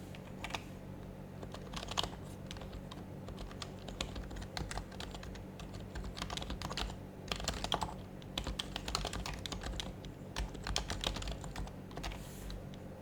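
Typing on an HHKB Professional HYBRID Type-S keyboard with silenced Topre capacitive switches: irregular bursts of keystrokes, denser in the middle, over a steady low hum.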